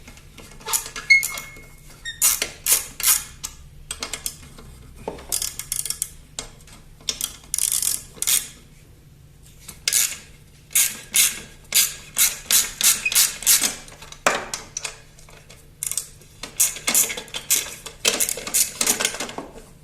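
Metal hand tools clicking and clinking in quick bursts of sharp strokes as the muffler is unbolted from a Toro walk-behind lawnmower's engine.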